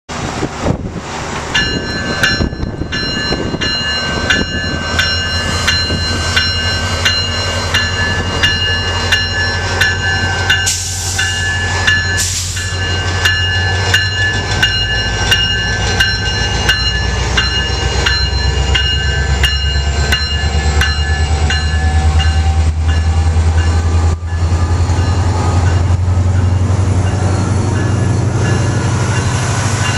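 Metrolink MP36PH-3C diesel locomotive running, its engine a deep drone that grows louder in the second half. Over it a bell rings steadily about twice a second until about two-thirds of the way through, and two short hisses come around the middle.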